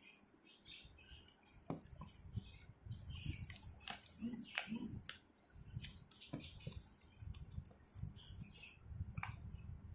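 Sheet of paper being folded by hand: irregular crinkles, rustles and small creasing clicks, with soft handling thumps.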